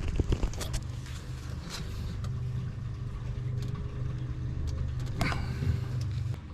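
A motor vehicle engine running steadily, with a low hum throughout. A few sharp clicks and knocks come near the start and again about five seconds in.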